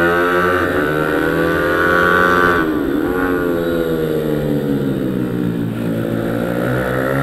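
Pit bike engine revving hard. Its pitch climbs, drops sharply about two and a half seconds in as the throttle comes off, then builds again toward the end.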